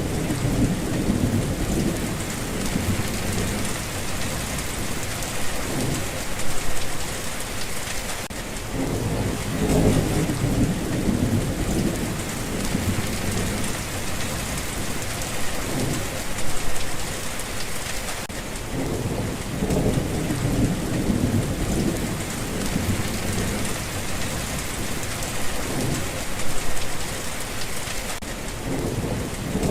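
Heavy rain falling steadily, with low rolls of thunder swelling several times.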